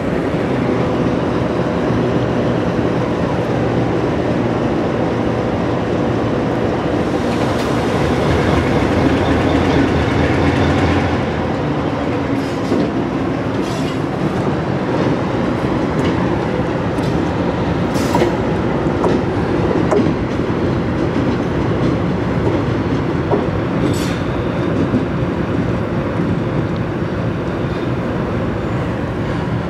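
GE B23-7 diesel locomotive moving past with a train of covered hoppers. Its engine note is steady for the first ten seconds or so, then wheel-on-rail noise takes over, with clicking over the rails and a few sharp clanks.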